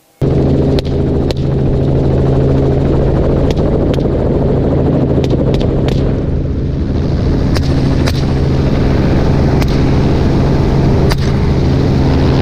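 Helicopter engine and rotor running steadily with a deep hum, while rifle shots crack out about a dozen times at irregular intervals as hunters fire from the aircraft at a feral hog.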